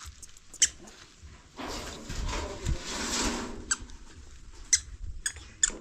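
Short high-pitched squeaky chirps repeated every half second or so, with a rough scraping noise from about one and a half to three and a half seconds in.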